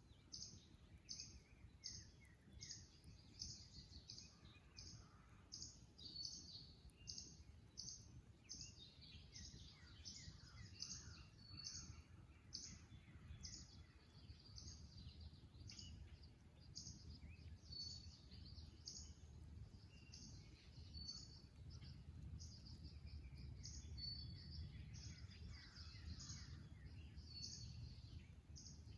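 Faint dawn marsh chorus: one bird repeats a short, high note a little under two times a second, while other birds sing quick descending phrases, over a low rumble.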